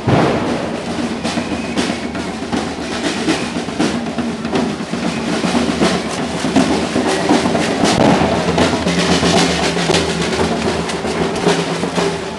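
Marching band drums playing: snare drum rolls over bass drum beats.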